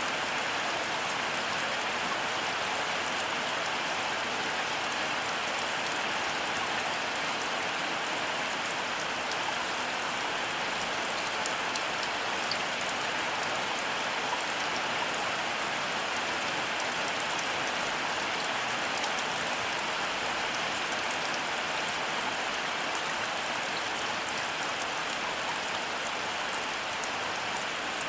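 Heavy rain falling steadily: an even hiss of rain with fine ticks of single drops scattered through it.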